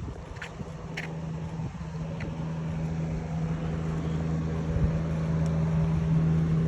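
A steady low engine hum, growing slightly louder, with a few faint clicks in the first couple of seconds.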